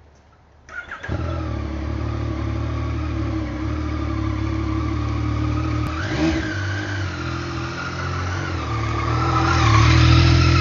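Motorcycle engine running while riding, starting abruptly just under a second in. Its pitch dips and climbs again about six seconds in, then rises and gets louder near the end as it accelerates.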